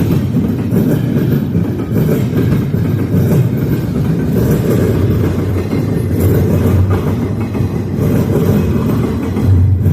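Freight train rolling past at close range: a loud, steady, heavy rumble of wheels on the rails.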